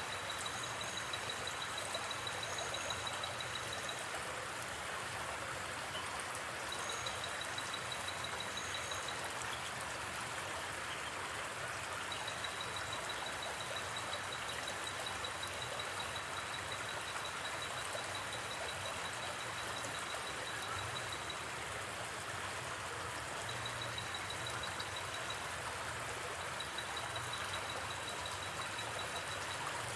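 Steady rush of a flowing river. Over it runs a high, rapidly pulsing trill of a night insect, which breaks off and starts again several times.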